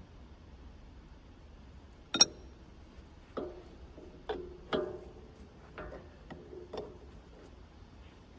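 Metal striking metal: about seven sharp clanks, the first and loudest a little over two seconds in. Several leave a brief ringing tone, like steel tools or parts knocked together during work on the sawmill's blade.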